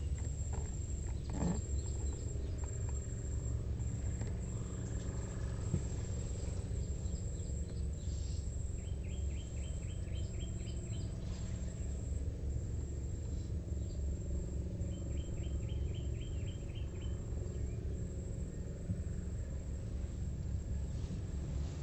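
A bird gives two quick runs of rapid high chirps, about nine and fifteen seconds in, over a steady low hum from the boat moving through the mangrove channel.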